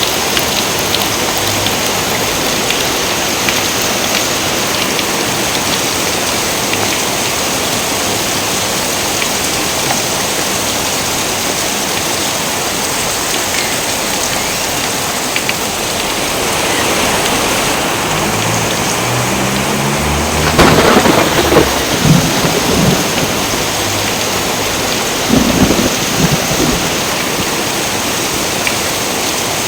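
Steady heavy rain with a thunderclap about two-thirds of the way in: a low rumble builds, breaks into a sharp crack, and rolls on in lower rumbles for several seconds.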